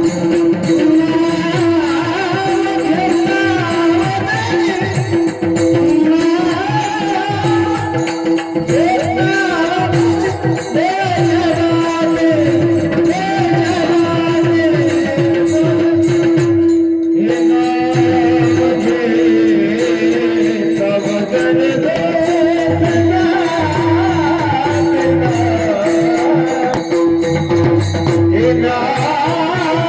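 Warkari bhajan in raag Bhairavi: a high male lead voice sings a devotional melody over a steady held drone, with rhythmic percussion accompaniment. The music stops briefly about halfway through, then resumes.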